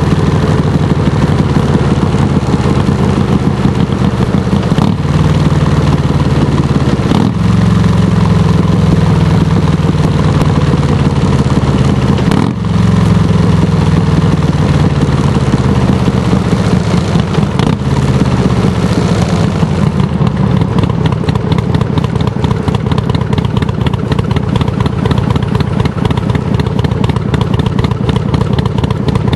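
Harley-Davidson touring motorcycle's V-twin engine, loud through Samson Silver Bullet mufflers. It is revved several times, the pitch sliding back down after each blip, and from about two-thirds of the way through it settles into a steady, pulsing idle.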